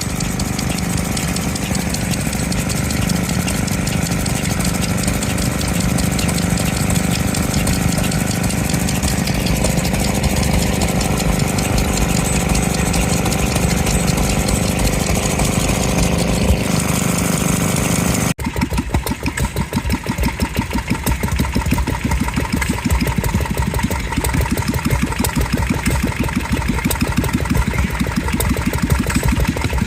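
Vintage stationary engines running steadily. About two-thirds of the way in, the sound cuts to a different engine with a fast, even beat.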